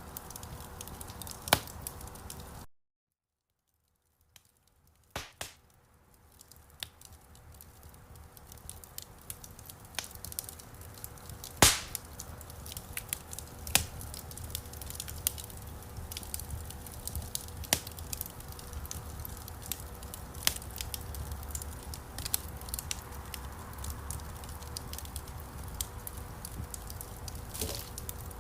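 Wood fire crackling, with scattered sharp pops, the loudest about twelve seconds in. The sound cuts out completely about three seconds in and fades back up over the next few seconds.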